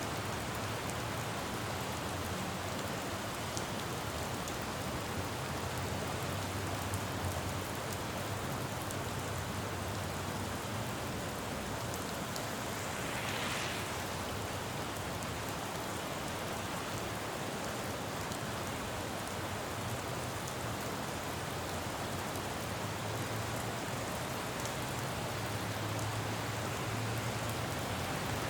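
Steady rain falling on a road, with a low rumble of city traffic swelling twice and a short swish about halfway through.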